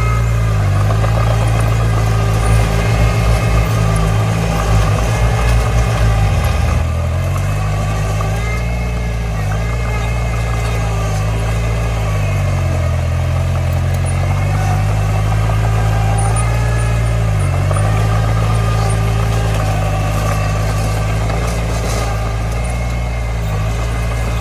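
Heavy diesel engine of earthmoving machinery running, its pitch dipping and rising several times as the load changes. A rapid rattling sounds over it for about four seconds near the start.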